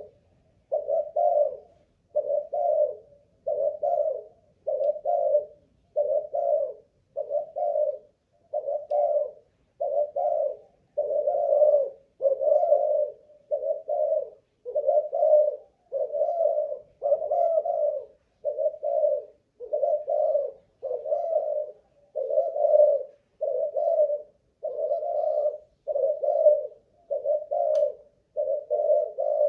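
Spotted dove of a Malaysian cooing line cooing in an unbroken run, one low coo about every second. The long, steady series shows the bird's cooing stamina.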